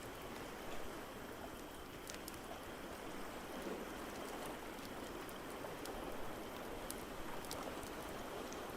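A steady wash of ocean waves with a few scattered sharp crackles from a wood fire in a fireplace.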